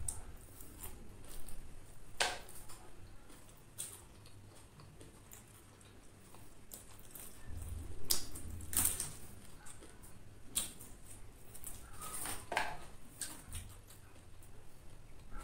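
Close-mic'd eating of crispy deep-fried chicken with a corn flour and oat coating: scattered crunchy crackles of chewing and wet mouth and finger-licking smacks, with a few louder crunches around the middle and near the end.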